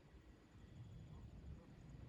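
Near silence: a faint low rumble of wind on the microphone, with a faint thin high whistle lasting about half a second around the middle.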